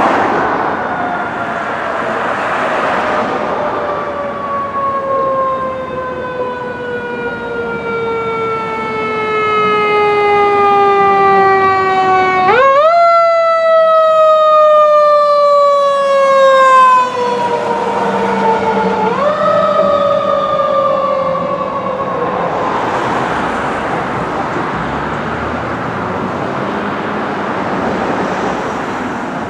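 Fire engine's mechanical siren winding down in a long, slowly falling wail, spun back up twice with a quick jump in pitch and falling away again each time. Near the end the siren gives way to a steady rushing noise of the passing truck.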